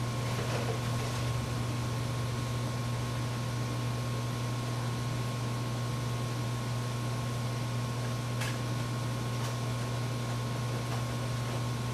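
Steady low electrical hum with hiss and a thin, steady high tone, and a few faint clicks about half a second in and near nine and a half seconds.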